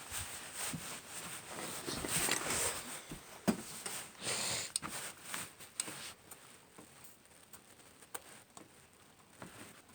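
Light clicks, knocks and rustling of tools and small engine parts being handled, with two short hissy bursts about two and four and a half seconds in.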